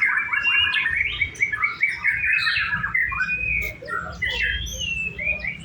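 White-rumped shama (murai batu) singing: a fast run of repeated chattering notes, then a string of varied whistled phrases and slurred glides.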